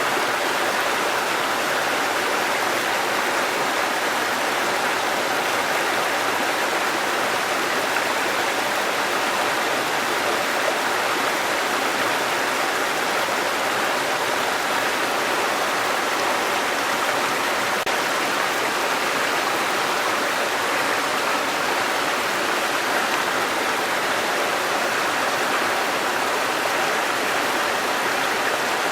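Waterfall and running stream water, a steady rushing without change.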